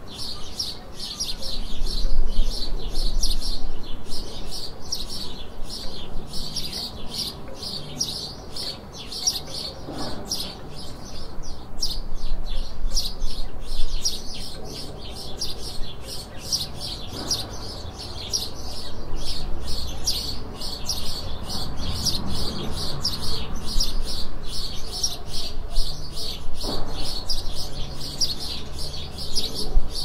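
Songbirds chirping and singing in a dense, unbroken stream of quick high notes, several a second, over a faint low rumble.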